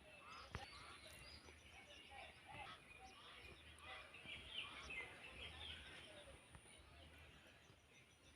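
Faint outdoor ambience with birds chirping in short scattered calls and a faint steady high tone.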